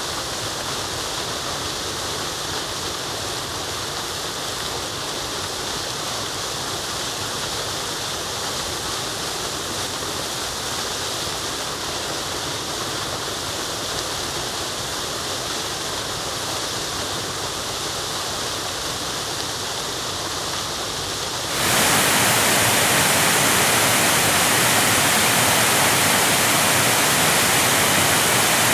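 Rushing water of a waterfall or stream, a steady wash of noise. About 21 seconds in it switches abruptly to a louder, brighter rush.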